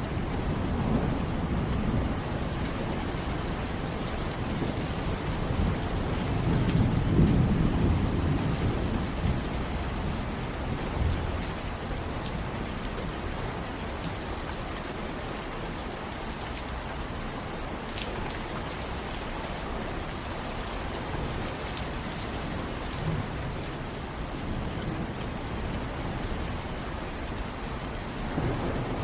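Steady rain pattering on surfaces, with scattered sharp drips. A low roll of thunder swells up about six seconds in and dies away a few seconds later.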